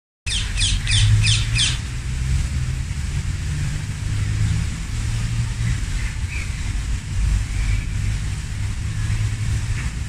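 A bird gives five quick, harsh squawks in a row in the first two seconds, each one falling in pitch. A few faint chirps follow later, over a steady low rumble and the hiss of a fountain's spray.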